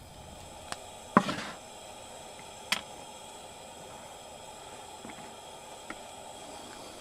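Campfire crackling: about five sharp pops and snaps over a steady low hiss, the loudest a bit over a second in with a short trailing crackle.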